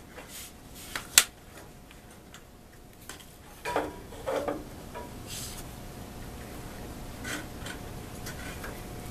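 Handling noises at a gas water heater's pilot access: a sharp click about a second in, metallic clinks with a short ring around four seconds in, and a few soft scrapes, with a faint steady hum in the second half.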